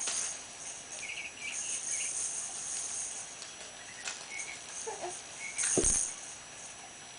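Fisher-Price rainforest play gym playing its electronic jungle sound effects: short bird-like chirps over a steady high hiss. A single sharp thump comes a little before the end, the loudest sound.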